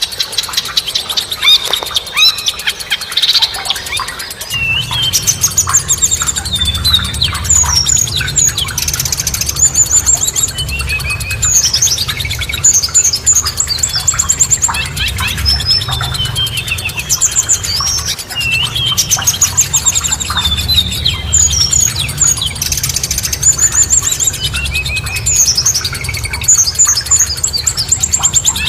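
Several songbirds chirping and singing over one another in rapid trills and short down-slurred whistles. From about five seconds in, a low steady rumble sits underneath.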